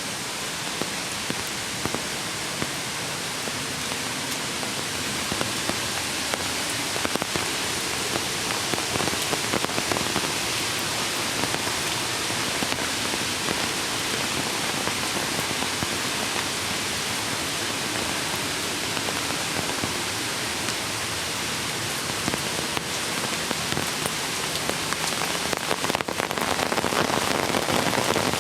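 Steady rain falling, with many small, sharp drop hits over a dense hiss; it grows a little louder near the end.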